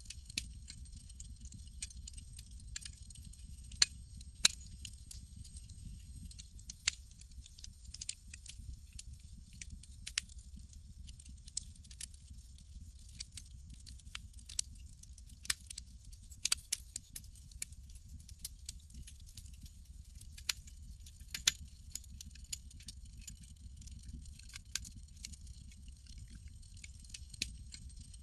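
Campfire crackling: irregular sharp snaps and pops, a few much louder than the rest, over a steady low rumble.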